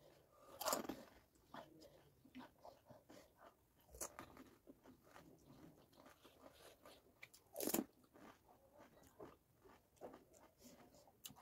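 Crisp panipuri shells crunching as they are bitten and chewed with the mouth full: three loud crunches among many faint ones.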